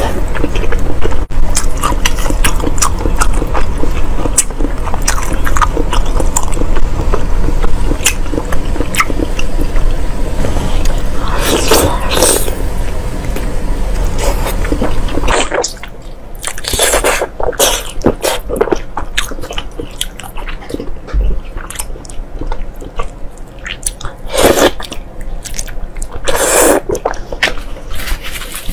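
Close-miked chewing and biting of deep-fried pig intestine: wet, sticky mouth sounds with many small clicks. About halfway through, a steady low hum underneath cuts out and the chewing goes on more quietly.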